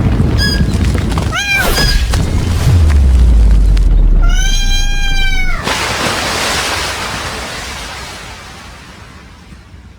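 A cat meowing: a few short cries in the first two seconds, then one long meow about four seconds in that drops in pitch at its end. Under it a deep boom holds through the first half and fades away.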